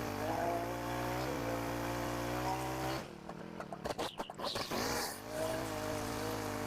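Small petrol engine of garden power equipment running steadily. About three seconds in it gives way to about two seconds of choppy, uneven noise, then the steady running comes back.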